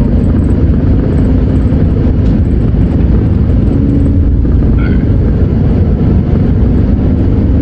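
A van running, heard from inside the cab: a steady low rumble of engine and road noise.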